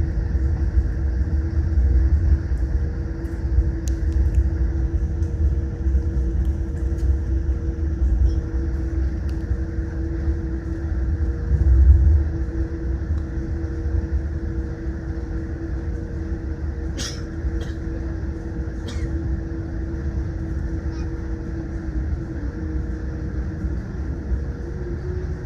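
Cabin noise inside a Boeing 787 Dreamliner: a steady heavy rumble of engines and airflow with a constant low hum, swelling slightly about halfway through. A few sharp clicks or rattles sound near the two-thirds mark.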